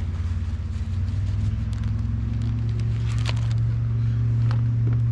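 An engine drones steadily at a low pitch, growing slightly louder as it goes, with scattered light clicks and rustles over it.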